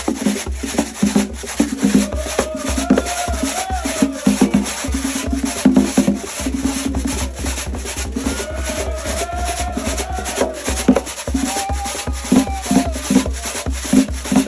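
Atabal drums played in a dense, steady rhythm with rattling percussion, and a voice singing long, wavering lines over them.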